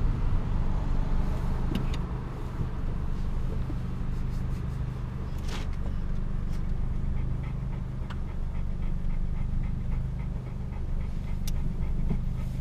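Mini One R50's four-cylinder petrol engine, fitted with a fast-road cam and a Scorpion exhaust, dropping to idle as the car comes to a stop, then idling steadily with a low, even hum, heard from inside the cabin.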